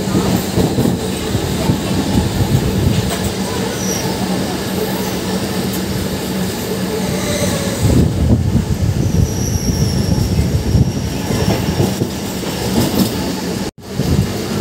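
MEMU electric train running at speed, heard from its open doorway: steady rumble of wheels on rail with frequent clattering over rail joints and faint high wheel squeals now and then. The sound drops out briefly near the end.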